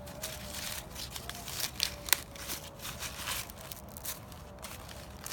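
Husks being peeled by hand off an ear of Glass Gem corn: irregular crackling, tearing and rustling, with one sharper crack about two seconds in.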